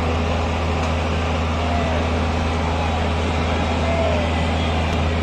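A steady low rumble with a constant hum underneath, and faint distant voices.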